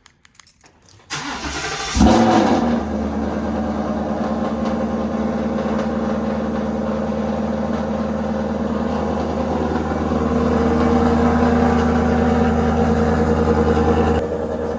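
Cold start of a 2018 Ford Mustang GT's 5.0 Coyote V8 through long-tube headers and a Borla catback exhaust: the starter cranks for about a second, the engine catches with a brief rev flare, then settles into a steady, very loud fast idle.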